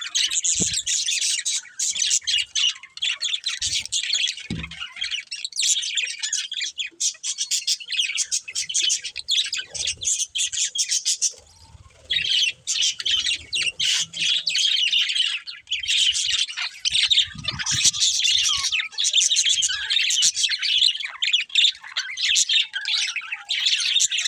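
Several budgerigars chirping and chattering continuously, with a brief lull about halfway through.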